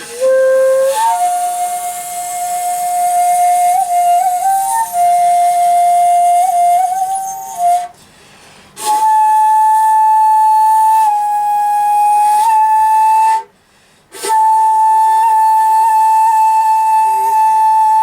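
Komuso-style shakuhachi played solo in long held notes, three breaths with short pauses between. The first phrase slides up from a lower note and dwells with small grace-note flicks; the next two hold one higher note steadily, with breathy air noise around the tone.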